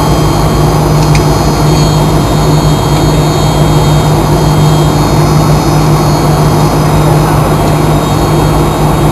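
Cabin noise of a Fokker 100 airliner with its Rolls-Royce Tay turbofan engines running: a loud, steady low hum with faint high whining tones over it.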